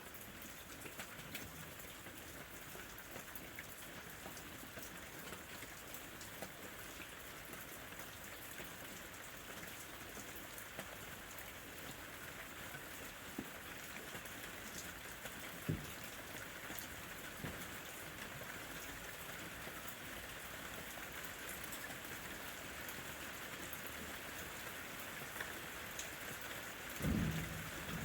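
Steady rain falling and pattering on the foliage of a lemon tree, with a few single heavier drops. A brief low rumble of thunder comes near the end.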